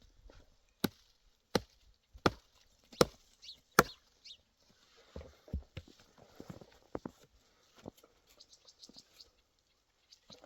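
Five sharp chopping blows, evenly spaced about three-quarters of a second apart, then softer, irregular knocks and handling sounds.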